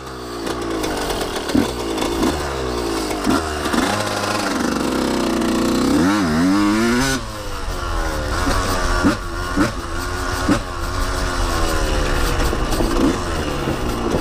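Dirt bike engine being ridden under throttle, its pitch rising and falling as it revs through the gears. There is a long climb in revs about midway that cuts off sharply about seven seconds in, with low rumble underneath.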